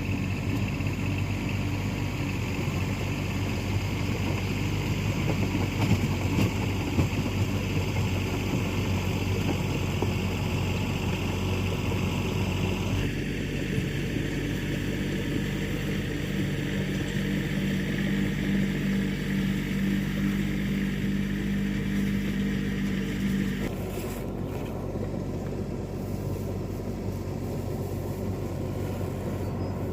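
A small engine running steadily with a low hum. Its sound changes abruptly about a third of the way in and again near the end.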